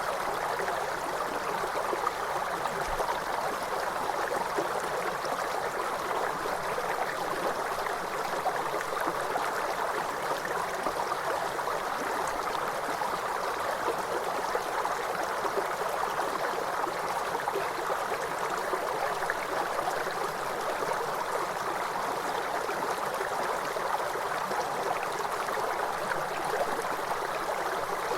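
River water flowing steadily over stones, an even rushing and gurgling with no change in level.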